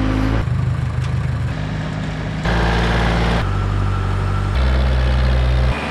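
Diesel engines of tractors and a backhoe running, in a string of short clips that cut abruptly about once a second, each with a different steady engine pitch.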